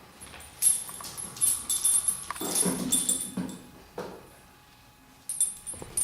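Puppies moving about, with a run of short clattering and scuffling sounds and thin high ringing, strongest in the first half and again near the end.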